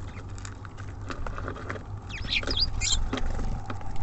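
Small birds at a feeder: scattered pecking and scrabbling taps, with a few short high chirps a little past halfway, over a low steady rumble.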